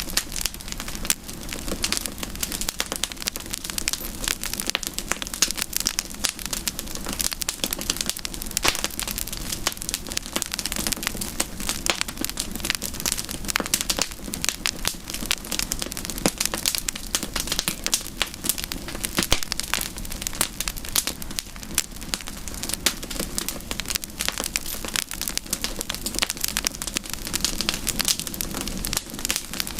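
Wood campfire crackling and popping steadily, with dense irregular snaps over a soft hiss of burning.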